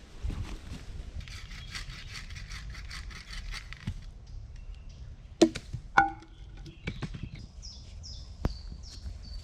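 Crunching and rustling, then two sharp knocks about half a second apart that ring briefly like struck metal, a few lighter knocks, and a quick run of short high chirps falling in pitch near the end.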